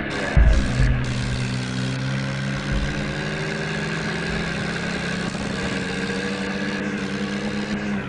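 John Deere 5050D tractor's diesel engine running at a steady speed, with a few low thumps in the first second.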